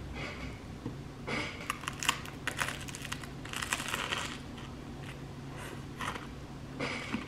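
Crinkling and rustling, like packaging or a bag being handled, in irregular bursts over a faint steady low hum.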